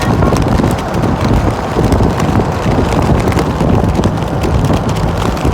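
Wind buffeting the microphone over the steady noise of parade vehicles driving past.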